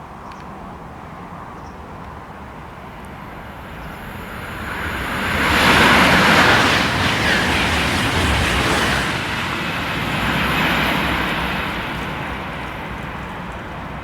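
High-speed TGV train passing through at speed: a rushing noise that swells over a couple of seconds, is loudest about six seconds in, holds for several seconds and then dies away.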